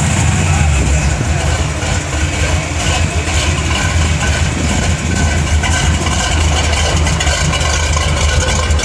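Engine of a lifted fire department brush truck idling steadily, with a loud, deep hum.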